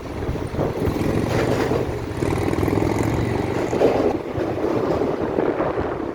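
Loud, steady rumble of a passing vehicle, easing off at the very end.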